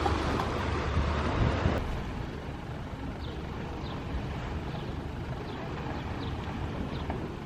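Outdoor ambience: wind rumbling on the microphone, which cuts off about two seconds in to a quieter steady hiss with faint short high chirps repeating every half second or so.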